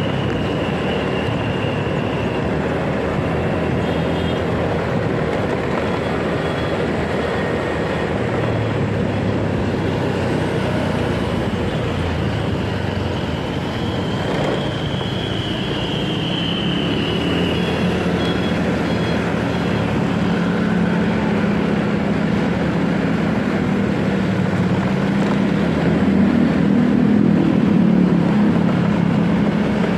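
Motorcycle riding through city traffic: steady engine, road and wind noise. A low engine note comes up in the second half and rises and falls with the throttle.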